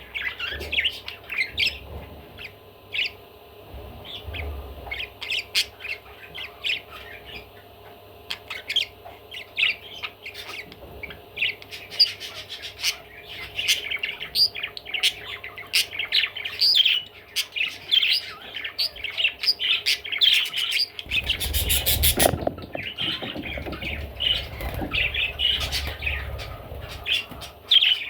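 Budgerigar chattering: a fast, continuous run of short chirps and squawky warbles. About three-quarters of the way through there is a short burst of rustling noise with a low rumble.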